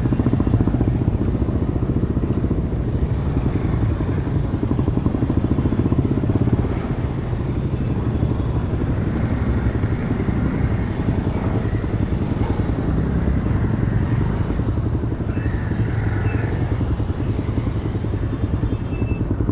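A Demak DTM 150 single-cylinder engine running under way through its stock exhaust, a steady, fast putter. It eases off a little about six or seven seconds in.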